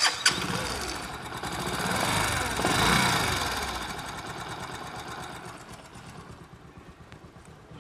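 Bajaj Discover 125 single-cylinder four-stroke engine running. It comes in suddenly, is revved up to a peak about three seconds in, then drops back toward idle. It has a ticking "chik chik chik" noise from the top end that new valves, cam and rocker arm have not cured.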